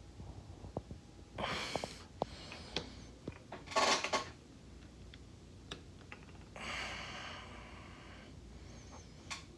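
Small metal clicks and taps from handling the parts of a Rolex President 18038 watch during its overhaul. Three short bursts of hiss come between them, the loudest about four seconds in.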